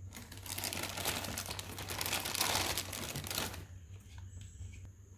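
Plastic packaging crinkling as it is handled, for about three and a half seconds, then stopping.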